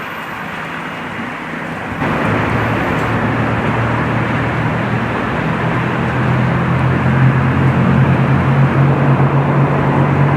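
Train running at a station, a steady low hum over rumbling noise that grows louder as it draws near.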